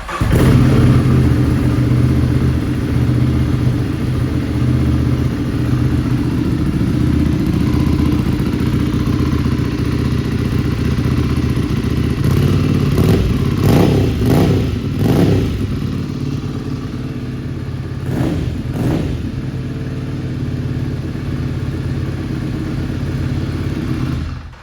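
Ducati Scrambler 800's air-cooled L-twin engine, through a Leo Vince aftermarket exhaust, idling steadily just after starting. It is revved in a few quick throttle blips in the middle and twice more later, each rising and falling back to idle.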